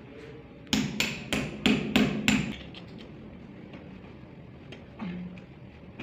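Six sharp knocks in quick succession, about three a second, followed near the end by a single softer knock.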